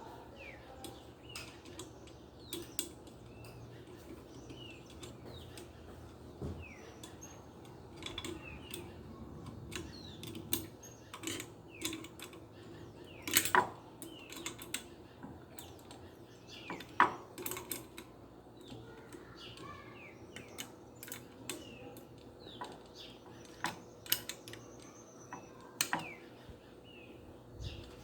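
Irregular clicks and metallic taps of parts and tools being handled while a washing machine motor is put together, a few louder knocks among them. Birds chirp faintly in the background.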